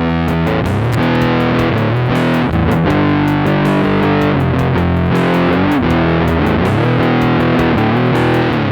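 Electric guitar played through a Big Muff-style fuzz pedal: thick, distorted sustained chords with sliding changes between them.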